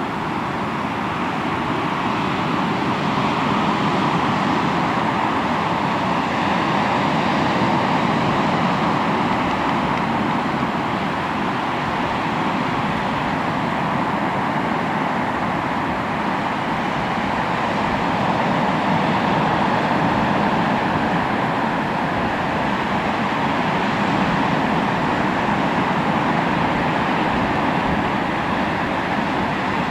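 Sea waves washing onto the shore: a continuous rush of surf that swells and eases slowly over several seconds.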